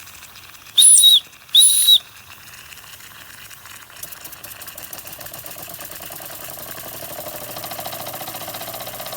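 Empire No. 92 toy steam engine: two short toots of its steam whistle, then about four seconds in the single-acting oscillating cylinder starts running with a rapid, even chuffing beat that grows louder.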